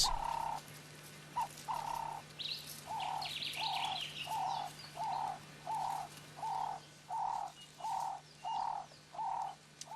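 A bird calling a steady series of short, evenly spaced cooing notes, about one and a half a second, with brief higher chirps from another bird a few seconds in.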